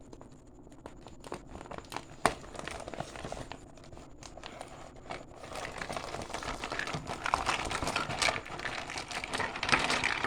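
Toy packaging being handled and opened: scattered clicks and rustles at first, then denser, louder crinkling from about halfway.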